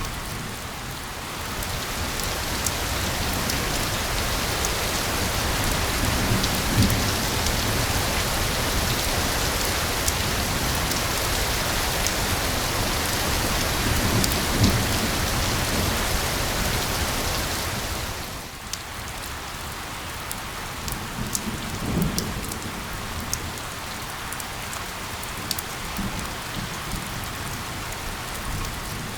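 Steady heavy rain hiss that grows louder a second or two in and drops back suddenly about two-thirds of the way through. Three brief low rumbles of thunder stand out.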